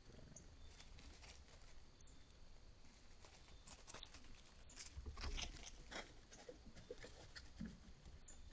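Faint, irregular crunching and clicking of a small rodent, thickest in the middle of the stretch, over near silence.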